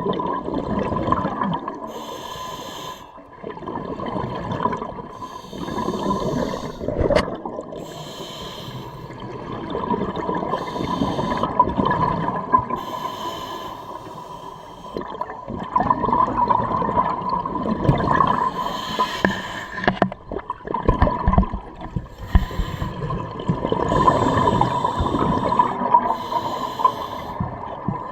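Scuba diver breathing through a regulator underwater: a hissing inhale every three to four seconds, each followed by a bubbling, gurgling exhale.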